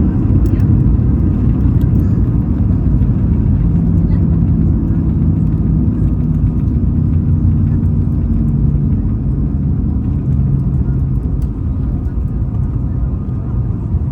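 Airbus A220-300 rolling on the ground after landing: a steady low rumble of its engines and wheels, easing slightly toward the end.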